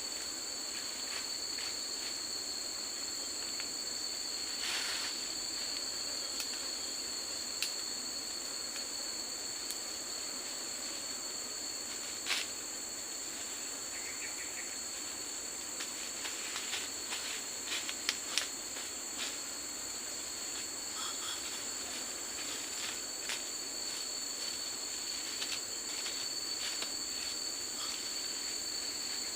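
Forest insects, crickets or cicadas, keeping up a steady high-pitched drone, with scattered short clicks and knocks, a few of them louder about twelve and eighteen seconds in.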